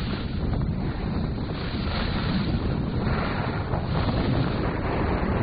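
Wind buffeting the microphone: a loud, fluctuating rushing noise, heaviest in the low end.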